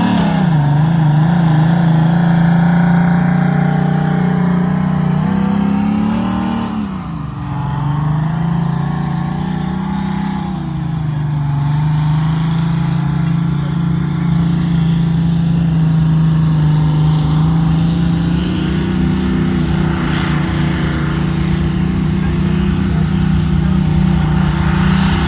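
Competition pulling tractor's engine running hard at high revs under load during a pull. Its pitch climbs about six seconds in and drops sharply a second later, then holds steady with small changes in pitch.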